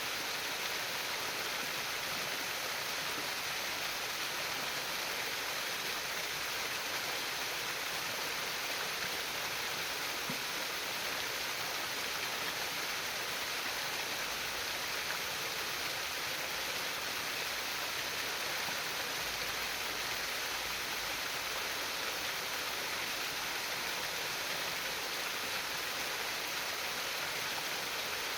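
Water flowing and trickling steadily over stones in a stream, an even splashing hiss.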